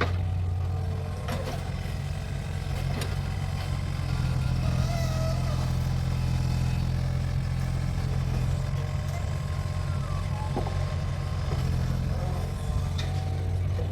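Mini excavator's engine running steadily under working load, with a few sharp metallic clanks and a faint squeal from the machine.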